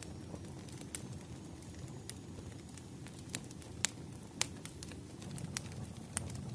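Wood fire burning: a steady low rumble with sharp, irregular crackles and pops scattered through it.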